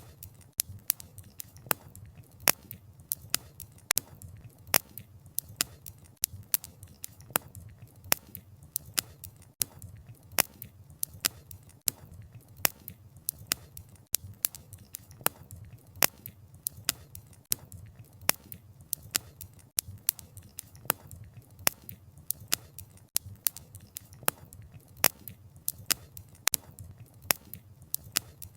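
Wood fire crackling: irregular sharp pops and snaps of burning firewood, several a second, over a low steady rumble of the flames.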